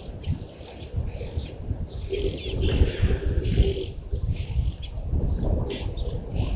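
Several birds chirping in short, repeated calls over a low, uneven rumbling noise. A steady low hum sounds for about a second and a half, starting about two seconds in.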